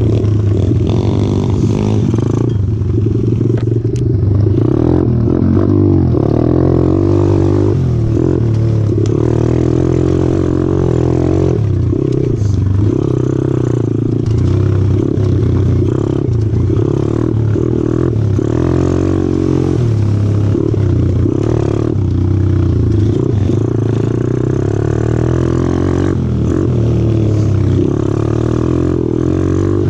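125cc four-stroke pit bike engine running under way on a trail, its pitch rising and falling with the throttle, with some rattling and clatter from the ride.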